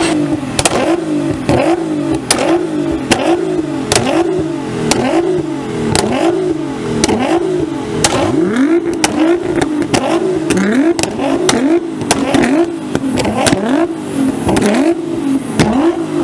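Nissan GT-Rs being revved hard and over and over, the engine note rising and dropping back roughly every three quarters of a second. Sharp exhaust pops and cracks come throughout, from flame-spitting exhausts.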